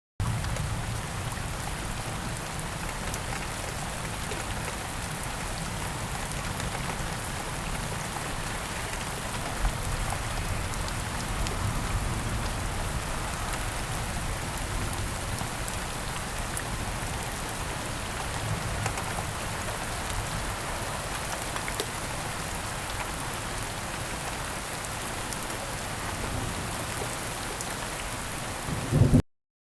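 Steady rain falling: an even hiss with a low rumble underneath. It starts abruptly, swells briefly near the end and then cuts off suddenly.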